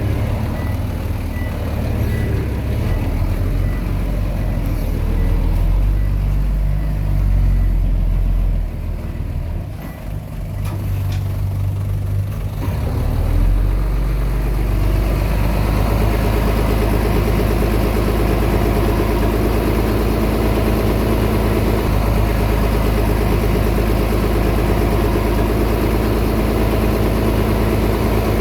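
Komatsu D20P bulldozer's diesel engine working under changing load for the first dozen seconds, dipping briefly about ten seconds in. It then settles into a steady, even run from about thirteen seconds on.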